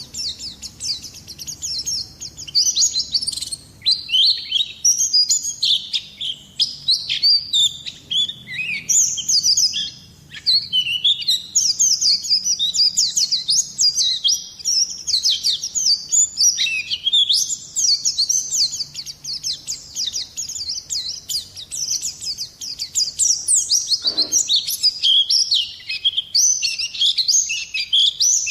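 White-eye (pleci) singing a fast, continuous twittering song of rapid high chirps and trills, broken only by brief pauses.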